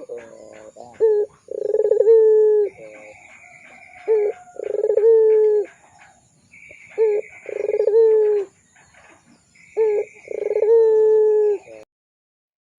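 A puter pelung dove cooing: four phrases, each a short note followed by a long, drawn-out coo that dips in pitch at its end, with a higher buzzy call between the phrases. The sound cuts off abruptly near the end.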